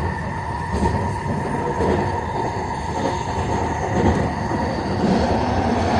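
SkyTrain Millennium Line train running along the track, heard from on board: a steady running rumble with a constant hum.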